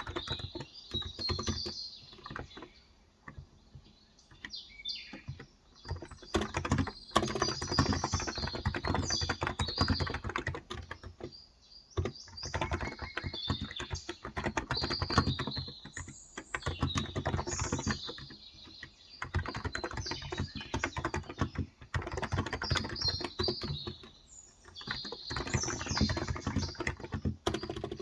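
Typing on a Cox Endeavour tenkeyless keyboard with 35 g electro-capacitive (contactless) switches: quick runs of keystrokes a few seconds long, with short pauses between them. Birds chirp faintly in the background.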